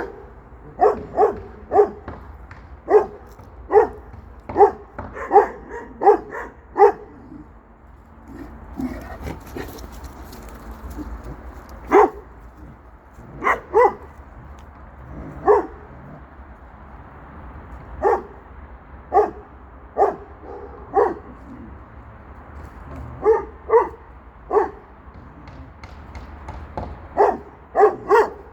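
Shepherd dog barking repeatedly: a quick run of barks in the first several seconds, then a short pause, then single barks and pairs every second or two.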